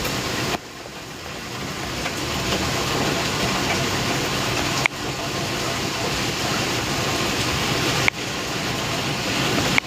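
Heavy rain pouring steadily, an even rush of noise with a few sudden brief drops in level.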